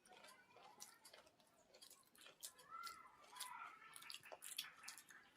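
Faint chewing and wet mouth clicks of someone eating, a few soft clicks a second.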